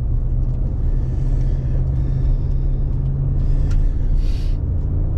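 Steady low road and engine rumble heard inside the cab of a truck being driven.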